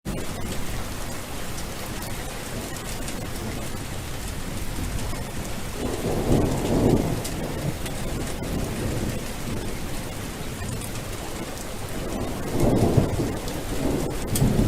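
Steady rain falling, with two low rolls of thunder: one about six seconds in and another near the end.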